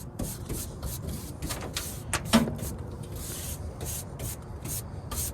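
A stiff coil brush scrubbing dirt out of a rooftop HVAC unit, in quick repeated scratchy strokes at about three a second.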